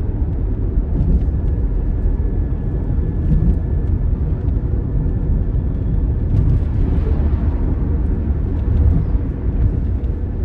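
Steady low rumble of engine and road noise inside a moving car's cabin as it is driven along city streets.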